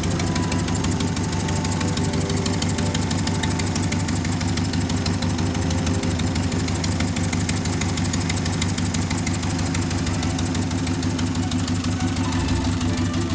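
Engine idling steadily, with an even, rapid firing pulse.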